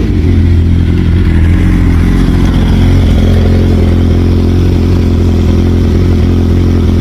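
Motorcycle engine running steadily at a constant, fairly loud pitch.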